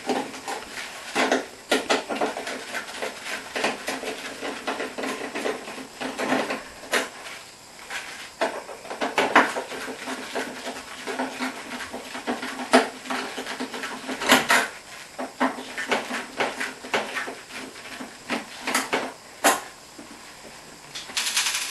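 Irregular metallic clattering and knocks as tools and the sheet-metal panels of a dishwasher being dismantled are handled and set down.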